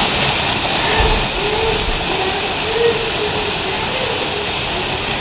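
Waterfall, water rushing and splashing in a loud, steady hiss.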